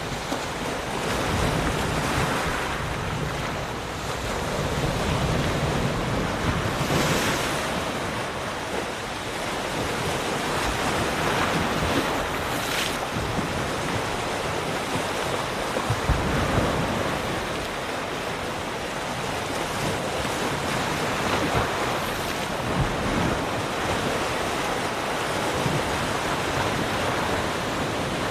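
Ocean surf: waves breaking and washing in continuously, swelling and easing every few seconds, with wind buffeting the microphone.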